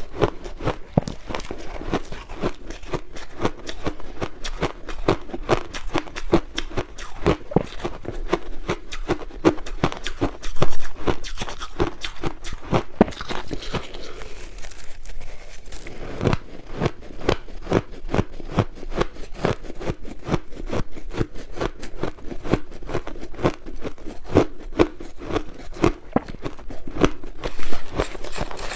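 White crushed ice being bitten and chewed up close: dense, rapid crunching and cracking, with a brief lull about halfway through.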